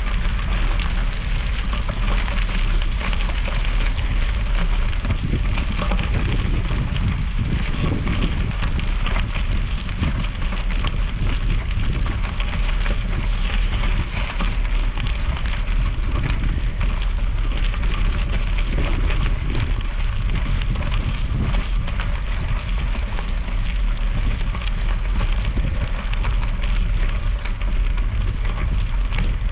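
Bicycle ride noise on the camera microphone: a steady low wind rumble with a dense crackling hiss, typical of tyres rolling on wet gravel.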